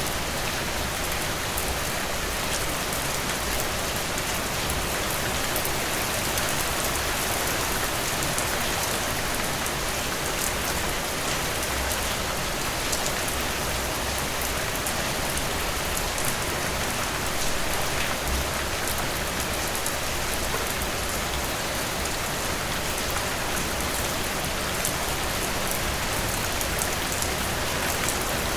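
Heavy rain pouring steadily, a dense hiss of countless drops striking a surface, with fine drop ticks through it.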